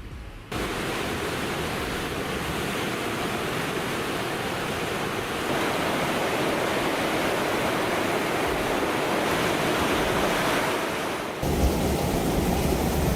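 Floodwater rushing over a roadway: a steady, continuous rush of moving water. About eleven seconds in it turns abruptly deeper and a little louder.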